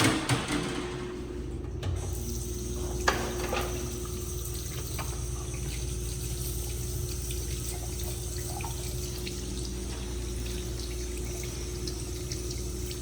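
Restroom sink faucet turned on about two seconds in, then water running steadily into the basin, with a sharp click a second later. A steady low hum sits underneath.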